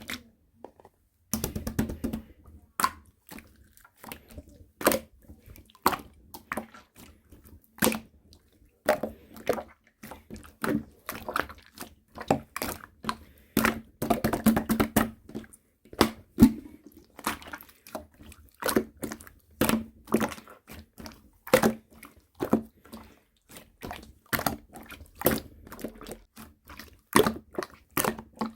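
Clear slime being squished and pressed by hand, making irregular wet clicks and pops, with a denser run of crackling about fourteen seconds in.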